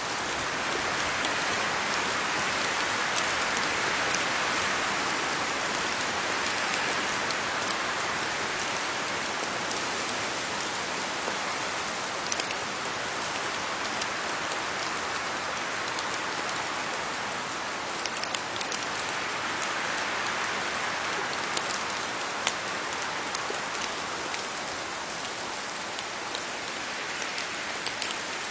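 Steady rain falling on leaves, an even hiss with scattered sharper drop ticks, swelling slightly a few seconds in and again about two-thirds of the way through.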